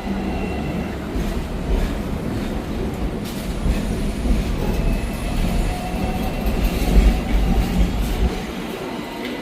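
Hong Kong double-decker electric tram running on its rails: a steady low rumble of wheels, with a faint whine that slowly rises in pitch through the middle.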